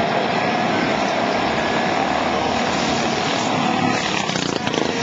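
Small racing minibike engine running at high revs, a steady drone whose pitch eases slightly downward in the first second or so.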